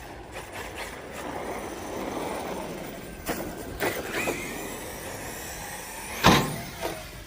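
RC stunt truck's electric motor whining as it drives and jumps, with several sharp knocks from landings and hits about three to four seconds in and one loudest hard landing about six seconds in.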